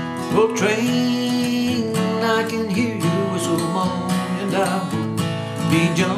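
Acoustic bluegrass music: an acoustic guitar strumming under a lead melody line whose notes glide and waver. This is the instrumental lead-in before the vocals start.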